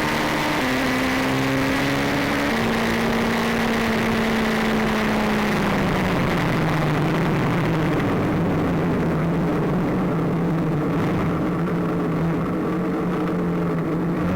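Motorcycle engine running under way, its note holding steady with small steps in pitch, then dropping about six seconds in and holding at a lower pitch as the bike slows. Wind rush on the microphone, fading in the second half.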